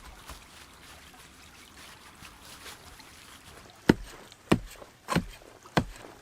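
Four sharp knocks, a little over half a second apart, in the second half, over faint rustling.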